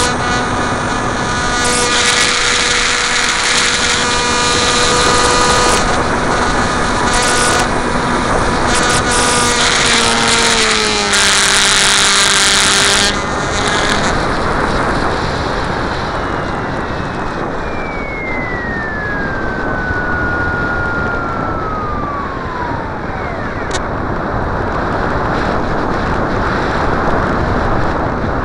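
Electric RC plane's motor and propeller buzzing steadily at a fixed pitch, stepping down in pitch about ten seconds in and cutting off about three seconds later as the throttle is closed. After that, gusty wind rushing over the microphone, with one slow falling whine in the middle.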